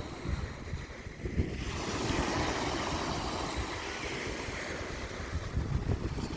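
Strong, gusty wind buffeting the microphone, with a steady rush of wind over the outdoor ground that swells about a second and a half in.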